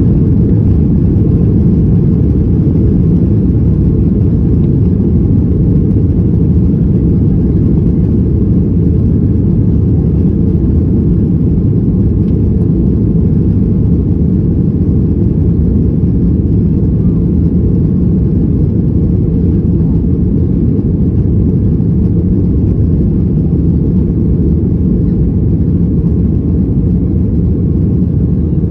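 Steady, loud low rumble of a Boeing 737's engines and airflow heard from inside the passenger cabin.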